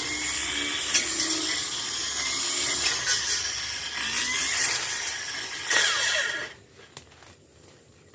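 Tanzu brush cutter engine running with a wavering whine as its head cuts through brush and weeds. The noise drops away suddenly about six and a half seconds in, leaving only faint clicks and rustles.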